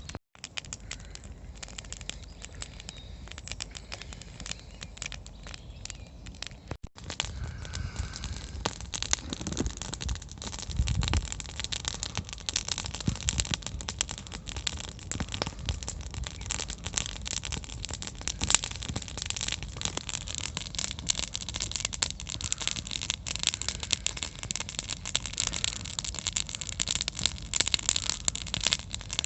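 Campfire crackling: a dense run of small pops and snaps that grows busier over the second half.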